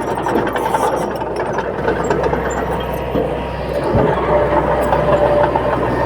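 Heavy diesel engine of earthmoving machinery running steadily, with a single dull thud about four seconds in.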